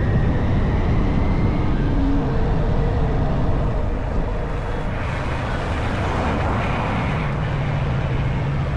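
Honda CB190R motorcycle's single-cylinder engine running while riding, with rushing noise over it. A hiss swells through the middle, and the engine settles into a steady note near the end.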